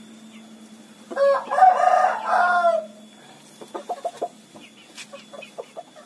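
A rooster crows once, a loud call lasting about two seconds, followed by a run of short clucks.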